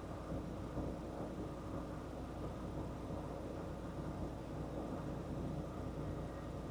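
Semi-truck's diesel engine idling: a steady low rumble with a faint hum.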